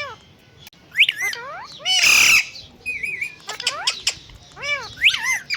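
Pet parrot squawking: a string of short, rising-and-falling calls, with one loud harsh screech about two seconds in and a brief warble just after.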